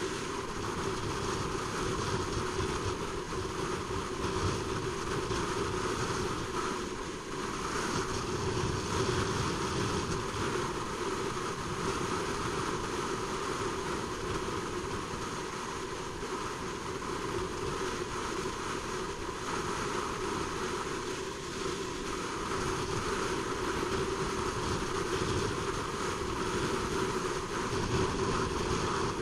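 Honda CBR600RR sport bike on the move: a steady rush of wind on the microphone over the bike's inline-four engine at a fairly even speed.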